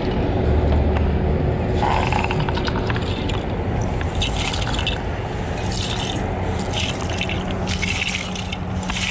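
A series of scraping strokes at uneven intervals over a steady low engine hum.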